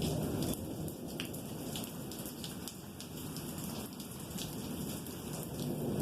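Steady rain, with scattered single drops striking a nearby surface, over a low rumble of rolling thunder.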